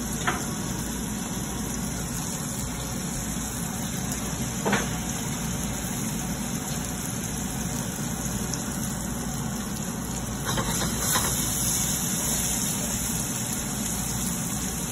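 Chicken pieces frying in oil in a stainless steel skillet over a gas burner: a steady sizzle over a low even rumble, with a few light clicks.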